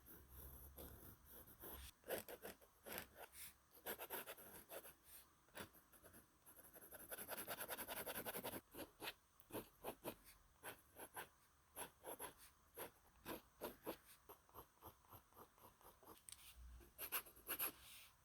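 Faint, quick drawing strokes on sketchbook paper, many short strokes in a row, with a denser run of rapid back-and-forth strokes about seven seconds in that lasts a second and a half.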